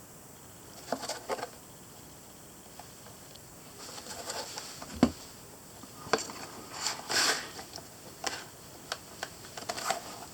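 Handling noises as a folded Silky Pocketboy 170 pruning saw is fitted into its saw case: scattered clicks, light knocks and rubbing, with the loudest knocks about five and seven seconds in.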